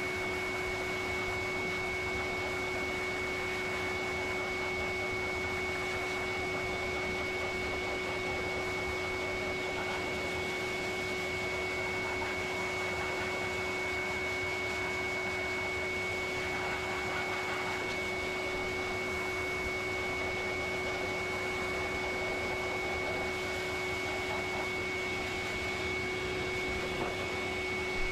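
Dog grooming dryer blowing steadily: a constant rush of air with a steady whine from its motor.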